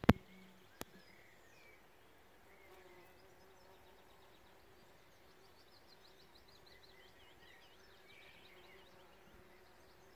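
Bees buzzing as a faint steady hum over a flowering field bean crop, with small birds singing, a fast trilling song most busy from about four to eight seconds in. Two sharp clicks right at the start are the loudest sounds.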